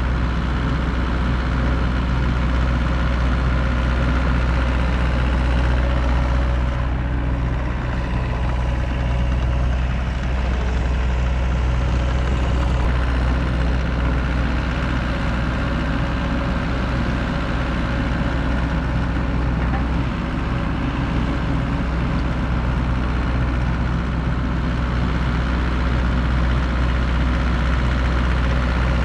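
Gehl RT65 compact track loader's engine running at a steady speed, a constant low drone that does not rise or fall.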